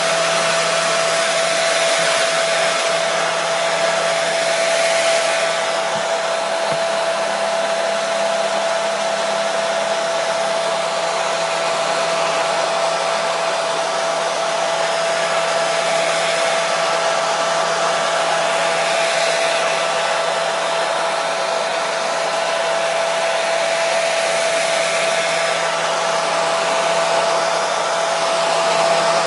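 Hair dryer running steadily: an even rushing of air with a steady motor whine. Played continuously as white noise to soothe a baby to sleep.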